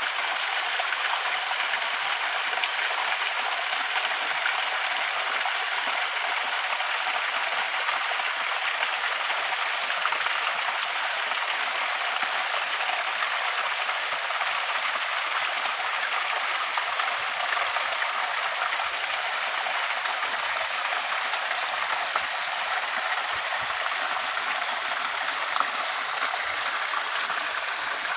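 Waterfall: falling water rushing and splashing steadily without a break.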